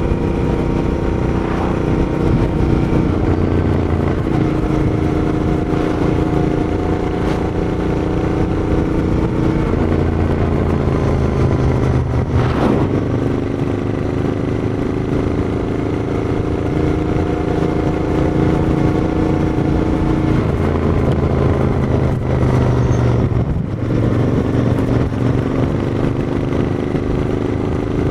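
Royal Enfield Interceptor 650's parallel-twin engine running through its exhaust, with the engine note rising and falling several times as the throttle changes.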